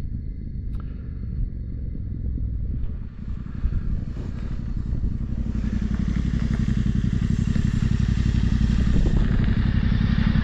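Adventure motorcycle engines running, growing louder from about halfway through as more bikes pull up.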